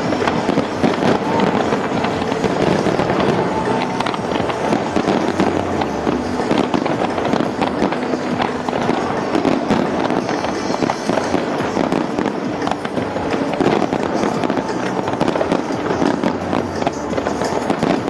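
Large fireworks display: a dense, unbroken run of bangs and crackles from many shells bursting at once, with music playing underneath.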